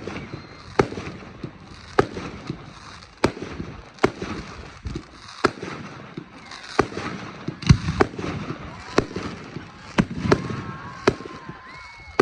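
Fireworks display: shells bursting in a steady run of sharp bangs, about one a second.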